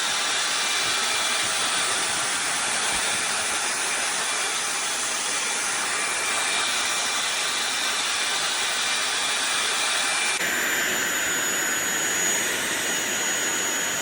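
SunSare cordless stick vacuum cleaner running with a steady, high-pitched whooshing motor noise. About ten seconds in, the sound changes abruptly and a thin high whine appears.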